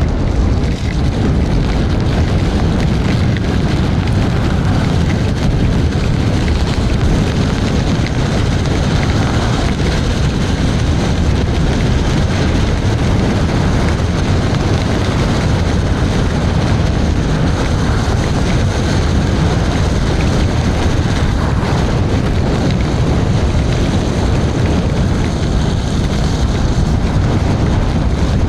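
Steady, loud wind rush buffeting the microphone while riding an electric scooter at speed, mostly deep in tone.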